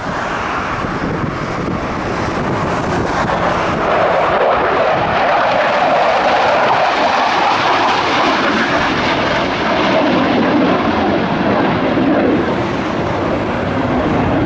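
US military fighter jet taking off, its jet engines making a loud, continuous roar. A band in the roar sinks lower in pitch over the second half.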